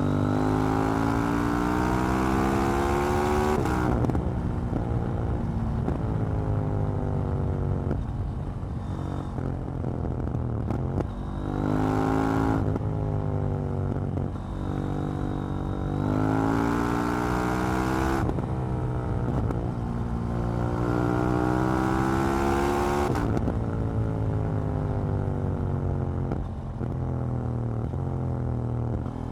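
KTM 790 Duke's parallel-twin engine under way, its note rising as it accelerates through the revs and dropping back as the throttle closes, over and over as it works up and down through the gears.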